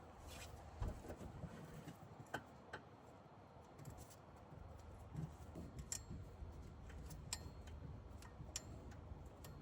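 Scattered light clicks and knocks of hand work on engine parts, a few of them short metallic clinks, over a low steady hum.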